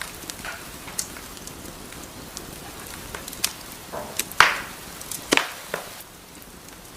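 Wood fire crackling in a fireplace: a soft steady hiss with scattered sharp pops and snaps. The biggest cracks come in a cluster a little past the middle.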